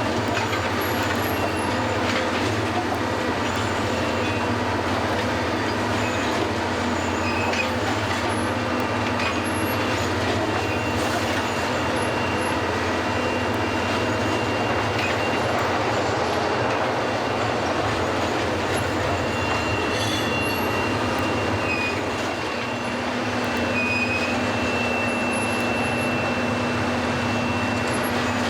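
Track renewal train's machinery running steadily as it creeps along, a constant mechanical clatter over a low hum, with a thin high-pitched squeal coming and going through it.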